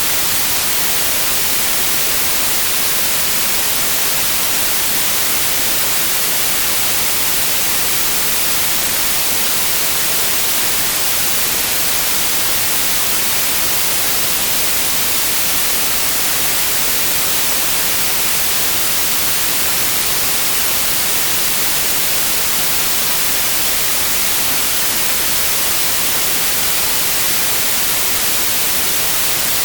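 Steady white noise: an even, unchanging hiss across the whole range, loudest in the highs.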